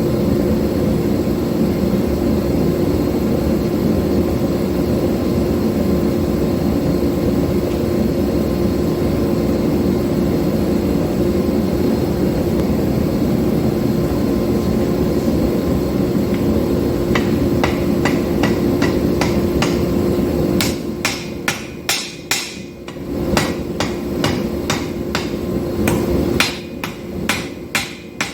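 Mechanical power hammer pounding hot steel bar stock with rapid, continuous blows as it is drawn out. About twenty seconds in this gives way to separate hammer strikes on steel, each with a high ring.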